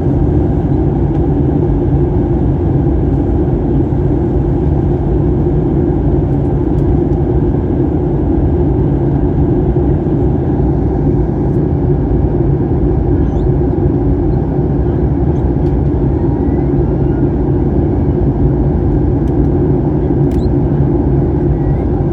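Steady low drone inside the cabin of a Boeing 737-800, the hum of its engines and air systems heard from a window seat, with no rise or fall.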